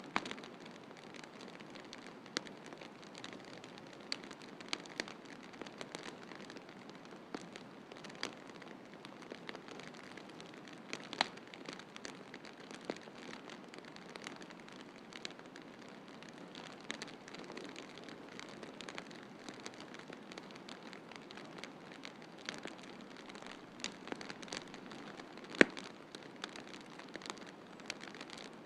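Wood fire in a fireplace crackling, with irregular sharp pops and snaps over a steady low hiss; one louder pop near the end.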